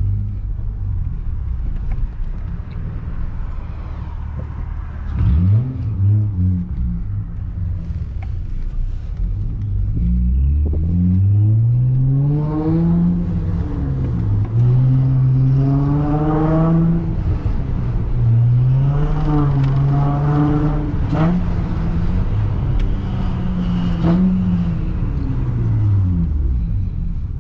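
The 3.2-litre V6 of a 2005 Acura TL with a six-speed manual, heard from the cabin, pulled hard through the gears. Engine pitch climbs and drops at each shift about three times over the road rumble, then falls away near the end as the car slows. The owner says the clutch is slipping a little.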